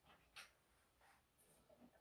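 Near silence, with a few faint small clicks.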